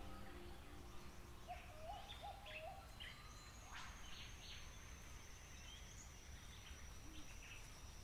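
Faint birdsong over a quiet outdoor background: a short rising call repeated three times in quick succession, a scatter of brief chirps, and a thin, very high steady tone held from about three and a half seconds in.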